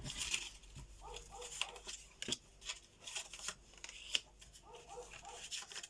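Tarot cards being handled and turned over: a run of light, irregular card clicks and slides.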